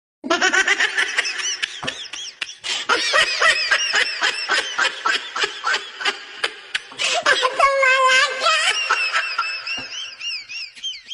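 A young child laughing and squealing in rapid, high-pitched bursts.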